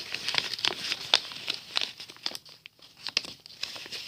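A sheet of printer paper being folded and creased by hand, crinkling and crackling in quick irregular snaps, with a brief lull a little past halfway.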